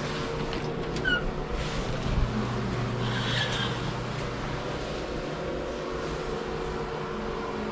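A steady mechanical hum of room ventilation equipment, with a few brief squeaks and light knocks about one to three seconds in.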